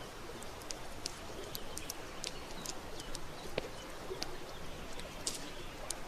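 Wood campfire crackling, with many short sharp pops and snaps at irregular intervals over a steady rushing background of the river.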